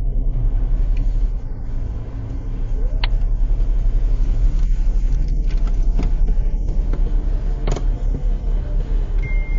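Steady low rumble of a moving vehicle as picked up by a dashcam, with a few sharp clicks or knocks at intervals.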